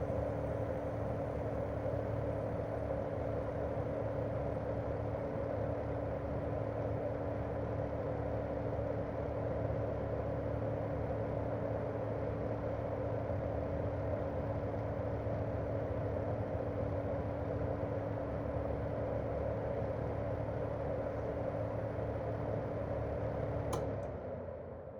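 Daikin R28RMV mini-split outdoor unit running in cooling mode: its propeller fan and twin-cylinder swing compressor make a steady whoosh with a steady hum. About a second before the end there is a click, and the hum drops in pitch as the running sound dies away.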